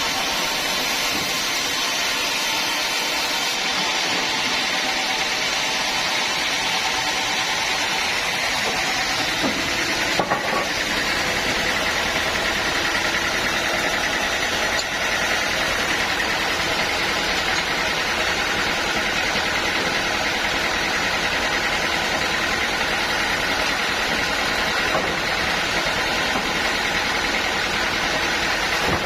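Bandsaw mill running steadily, with a single sharp knock about ten seconds in, after which a steady high whine runs on.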